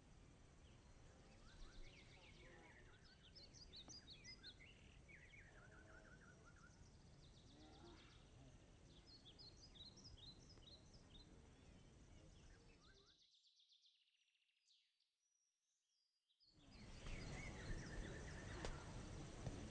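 Outdoor mountain ambience: small birds chirping in short, repeated calls over steady background noise. The sound fades away about two-thirds of the way in and drops to near silence for about three seconds, then returns louder, with the chirping resuming.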